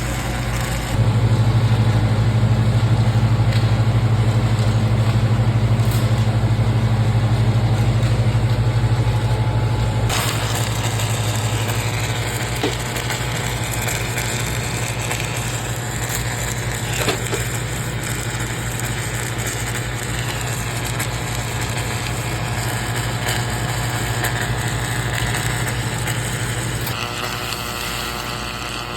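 Welding machine running with a steady low hum. The hum grows louder about a second in and eases back around ten seconds in, over a rough crackling noise.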